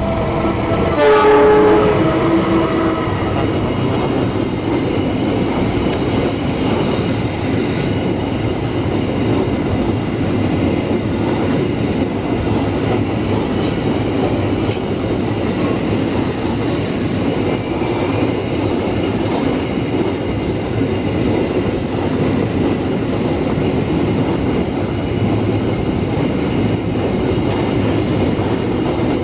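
A diesel locomotive sounds its horn in one long blast as it passes close by, the pitch dropping as it goes. It is followed by the steady rumble and clickety-clack of a long freight train of flat wagons rolling past on the rails.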